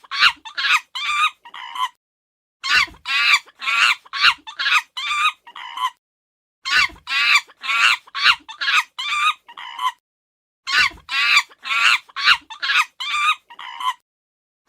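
Chicken clucking: a run of about eight short calls, the last one drawn out, repeated identically about every four seconds with silent gaps between, as a looped recording.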